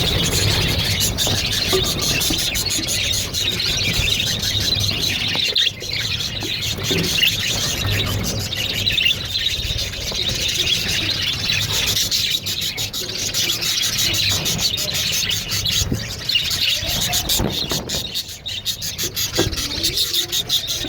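Parrots in a cage chirping and squealing continuously, a dense, overlapping chatter of high calls.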